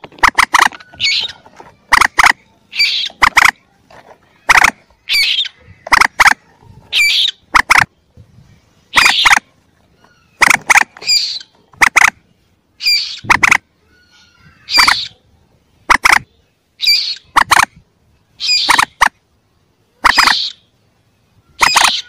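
Recorded calls of young common moorhens, played as a hunter's lure: short, sharp, loud calls repeated about once a second, some in quick pairs.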